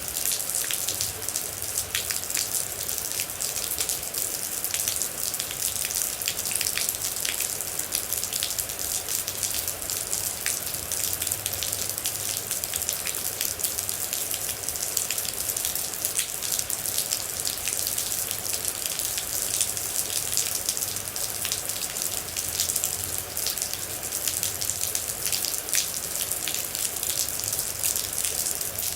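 Steady rain: a constant hiss with a dense patter of separate drops striking a surface.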